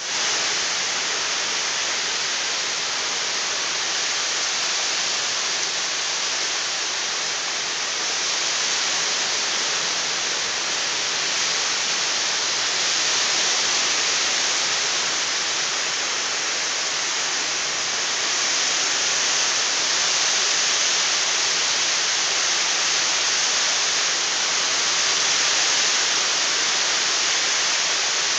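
Heavy rain pouring down in a summer storm: a steady, dense hiss that grows slightly louder in the second half.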